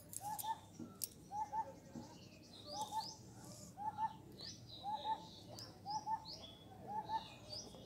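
Birds calling faintly: a short, low two-note call repeated about once a second, with higher chirps in between.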